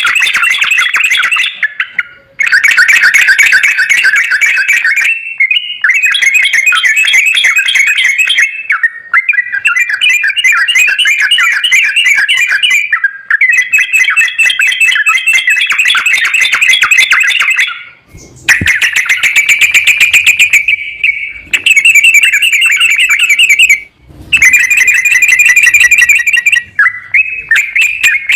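Yellow-vented bulbul (trucukan) song: loud, rapid, chattering trilled phrases about two to four seconds long, repeated with short breaks between them.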